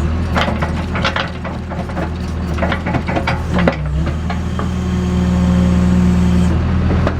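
JCB backhoe's diesel engine running steadily while digging, with a series of knocks and rattles over the first four seconds, then a held, higher tone under load from about four seconds in.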